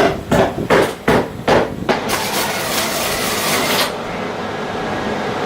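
Hammer blows, about three a second for the first two seconds, then a steady hissing noise that lasts to the end.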